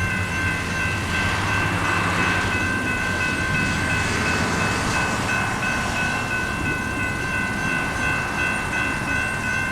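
Electronic grade-crossing warning bells (General Signals electronic bells) sounding together in steady high tones, with no train yet present. The uploader puts this early activation down to a track-circuit fault. Under the bells, road traffic noise swells and fades, and a low engine rumble dies away about two seconds in.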